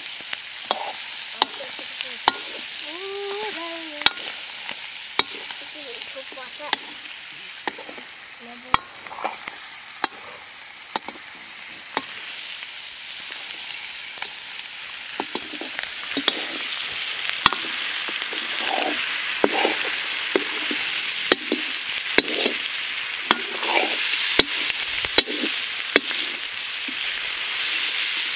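Chicken curry frying and sizzling in a pan while being stirred, the ladle knocking against the pan about once a second. The sizzle grows louder about halfway through.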